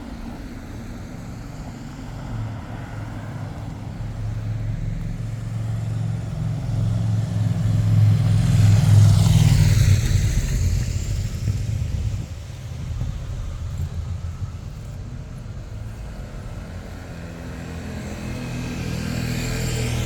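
A car driving past, its engine hum and tyre noise building to loudest about nine seconds in and then fading away. A second vehicle approaches near the end.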